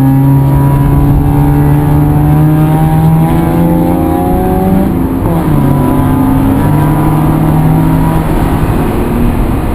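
Vehicle engine pulling under load, its note rising slowly for about five seconds, dropping at a gear change, then climbing again.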